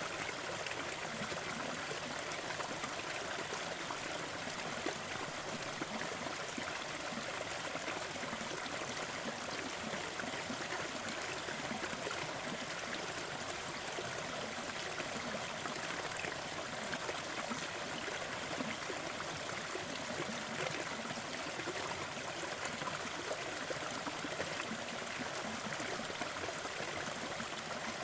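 Waterfall: falling water splashing and rushing in a steady, unbroken wash.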